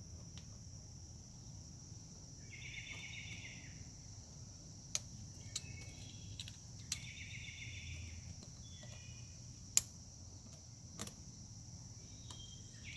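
Scattered sharp clicks and snaps of plastic clips and hoses being worked loose in a car's engine bay, about five over several seconds, the loudest near the end. A steady high-pitched whine runs underneath.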